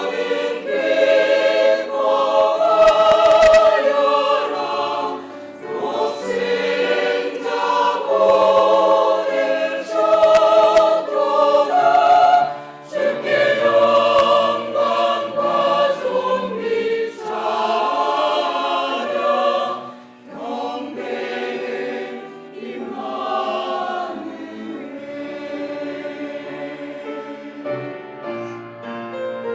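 Church choir singing part of a Christmas cantata in sustained phrases with short breaks, growing somewhat quieter after about twenty seconds.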